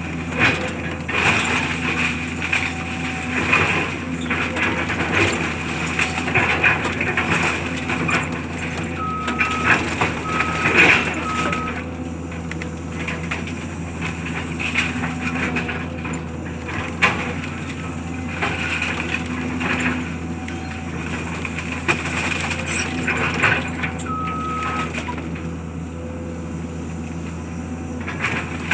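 Heavy demolition machinery running steadily while debris is crushed and broken, with repeated cracks and crashes. A reversing alarm beeps three times about ten seconds in and once more near the end.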